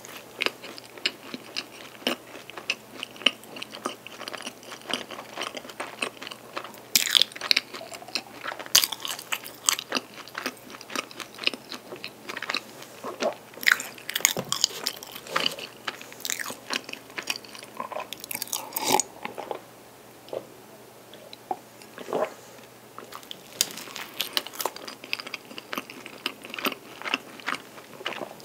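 Close-miked chewing of a mouthful of strawberry cream cake, with many small mouth clicks and smacks. There is a short lull about twenty seconds in.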